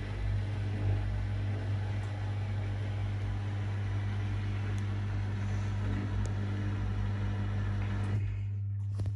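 Privileg 5020 front-loading washing machine running in its Easy-Care 40° cycle: a steady hum with an even hiss over it, the hiss dropping away near the end while the hum carries on.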